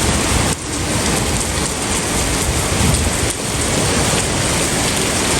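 Heavy rain pouring down, a steady dense hiss of rain on hard surfaces close around the microphone.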